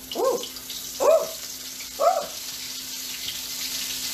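Cornstarch-and-panko-coated shrimp being dropped into hot frying oil, the sizzle growing louder as more go in. Three short pitched vocal sounds come about a second apart in the first half.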